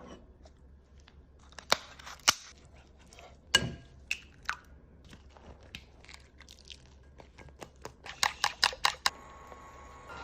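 Kitchen handling sounds from food preparation: scattered sharp clicks and knocks, with a quick run of about eight clicks near the end.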